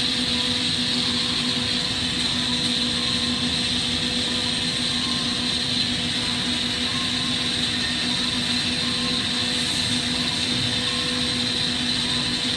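Propane-oxygen glassworking torch burning with a steady rushing noise, under a constant low hum.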